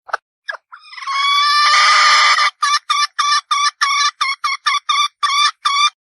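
Red junglefowl hen calling: two short notes, then a long harsh call rising slightly, then a run of about a dozen quick clucks at around four a second.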